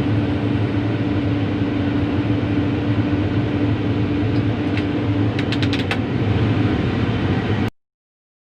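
Heavy-equipment diesel engine running steadily, with a few light clicks a little past halfway. The sound cuts off suddenly near the end.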